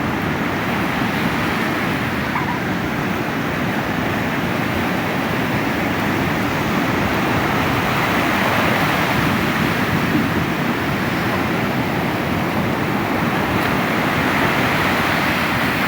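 Sea surf breaking on a beach: a steady wash of wave noise that swells about halfway through and again near the end.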